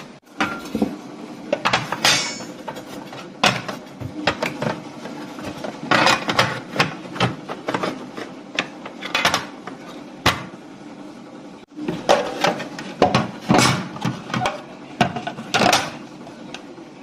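Coffee being made at a coffee machine: irregular clinks, knocks and short clatters of metal and crockery over a faint steady hum.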